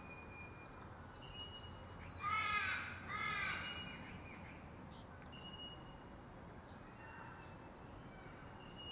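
Birds calling: two loud, harsh calls about two and a half and three and a half seconds in, with thin, high, steady whistled notes from other birds before and after.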